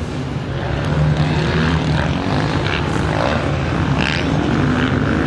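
Motocross bike engine running at high revs, its pitch holding fairly steady with small rises and dips as the bike rides the track.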